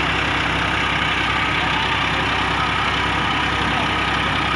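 New Holland tractor's diesel engine running steadily at a constant speed.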